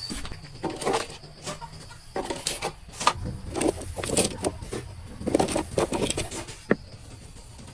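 Irregular clatter of sharp knocks and clicks, busiest in the middle.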